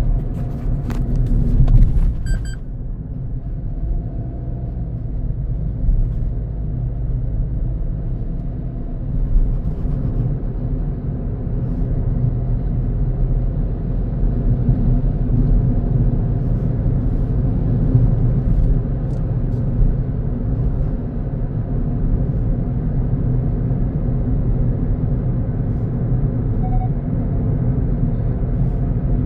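A car driving on the road, with a steady low rumble of engine and road noise. A few sharp knocks come in the first two seconds or so.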